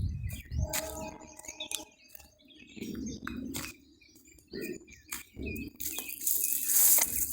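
Several wild birds chirping and calling in short sharp notes, with one lower, fuller call about a second in. Near the end comes a brief loud rushing noise.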